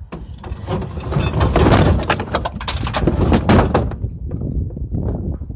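Clattering and scraping as a heavy engine is pushed and shifted into place, a dense run of knocks loudest in the middle that thins out near the end.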